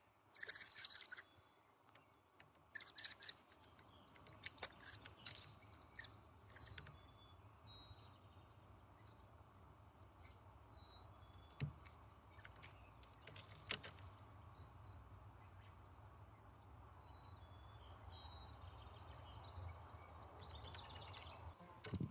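Small songbirds chirping and calling: a few louder bursts of calls at the start and again near the end, with faint short chirps scattered between them. A low steady rumble sits underneath.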